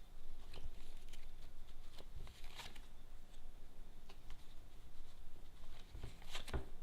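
Tarot cards being handled: shuffled and laid out, a scattered series of short papery flicks and taps, with a quick cluster of them near the end.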